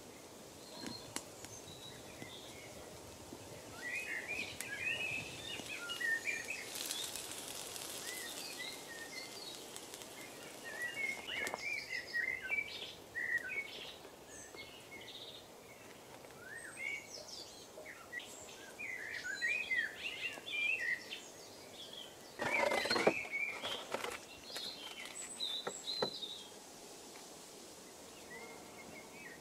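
Woodland birdsong: many short chirps and trills from several birds over a faint steady outdoor hiss. There are a few soft clicks and one brief burst of handling noise about three-quarters of the way through, the loudest moment.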